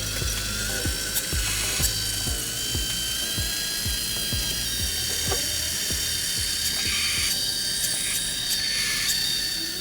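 Small electric motors and gearing of a remote-control hydraulic truck-mounted forklift model whining and clattering, the whine shifting in pitch a few times as the drive changes. Background music with a steady beat runs under it.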